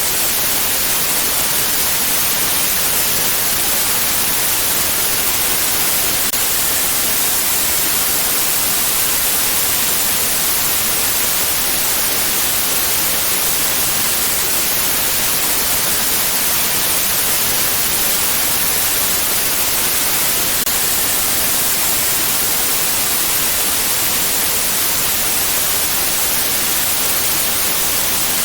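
Steady white noise: an even, bright hiss with most of its weight in the treble, unchanging throughout.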